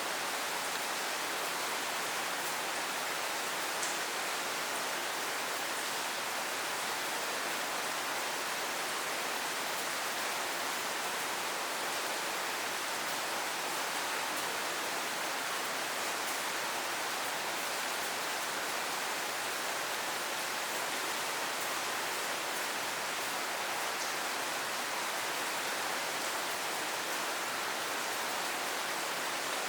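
Steady rain falling, an even hiss that holds at one level with no breaks.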